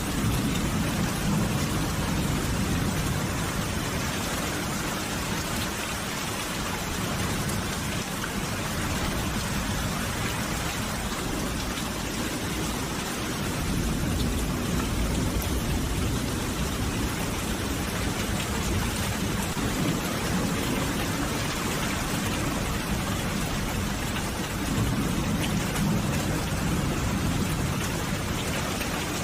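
Steady, heavy rainfall, a dense even hiss of drops, with a low rumble that swells up about three times.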